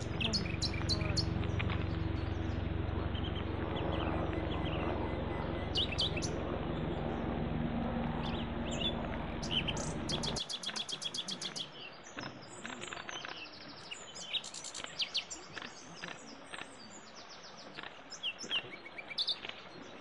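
Small birds chirping in short, quick calls, with a fast trill just after ten seconds in. A steady low outdoor background rumble lies under the first half and cuts off abruptly about ten seconds in, leaving the chirps over a quieter background.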